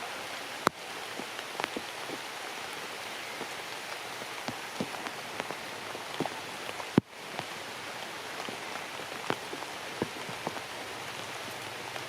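Steady rain falling, with scattered louder drops ticking sharply close by; the sharpest taps come just under a second in and about seven seconds in.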